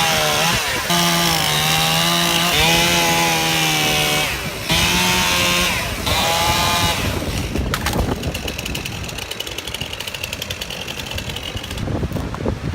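Chainsaw running at high revs with a steady engine whine, dipping briefly twice, then dropping away about seven seconds in, leaving rougher, quieter noise.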